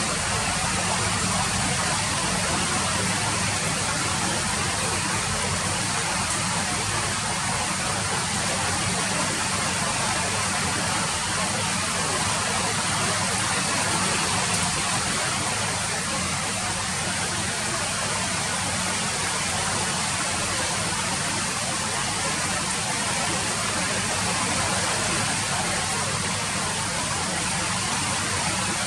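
Steady rain falling, an even hiss of drops that does not change.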